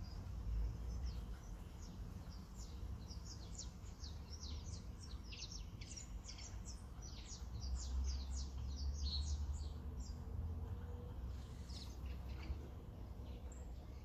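Small birds chirping in many quick, high, short notes, thickest in the first half and again briefly near the end, over a steady low background rumble.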